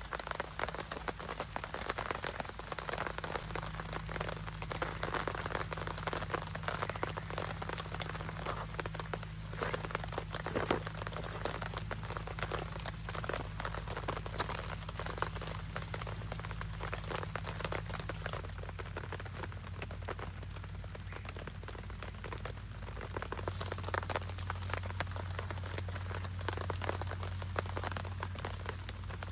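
Steady rain with many small drops ticking and pattering, over a faint low hum.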